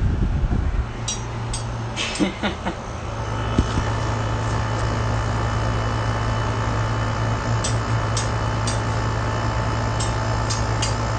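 Gold Star window air conditioner running on cool, its GMCC rotary compressor and fan giving a steady hum that grows a little louder and steadier about three and a half seconds in. Scattered light clicks sound over it.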